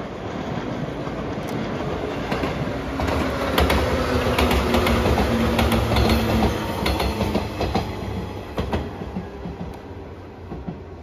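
A JR 115 series electric train passing close by, its wheels clacking over the rail joints. It grows louder to a peak about four to seven seconds in, then fades as it moves away.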